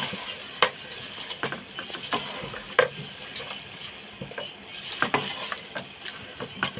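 Chicken pieces with yogurt and ground spices frying in a nonstick pot while a spatula stirs them: a steady sizzle with irregular scrapes and knocks of the spatula against the pan. This is the bhuna stage, browning the meat and masala together.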